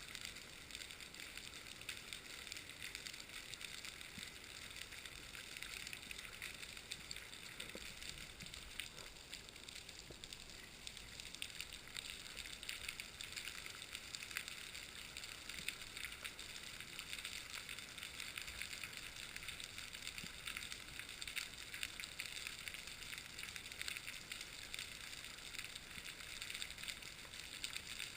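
Faint, steady water noise: a hiss full of fine crackles and ticks.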